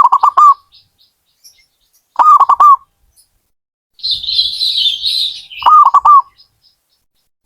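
Zebra dove (perkutut) cooing: three quick phrases of four or five rapid notes each, a few seconds apart. Between the second and third phrases comes a hissy burst, higher in pitch, lasting about a second and a half.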